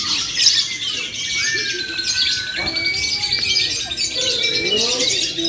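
Many lovebirds chirping and trilling over one another in a dense, continuous chatter.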